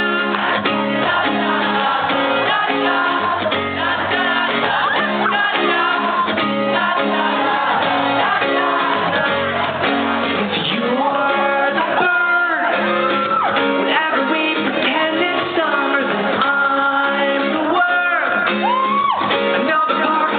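Live band playing a pop song in a concert hall, with singing and shouts from the crowd over the music.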